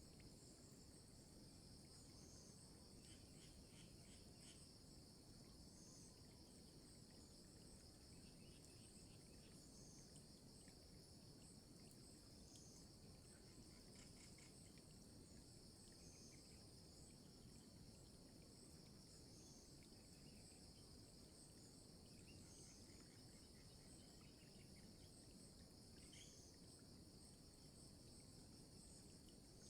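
Faint, steady chorus of crickets and other insects, a continuous high drone with a higher chirp repeating about every two seconds and scattered faint chirps over it.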